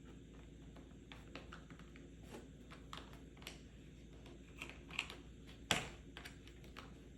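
Light, irregular finger taps on a medicine or pill box, several quick taps with brief gaps, the loudest one a little before six seconds.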